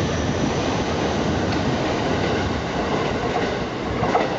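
JR East E231-series electric commuter train departing, its last cars rolling past with a steady roar of wheels on rails. The noise eases slightly as the tail end clears, with one brief louder knock near the end.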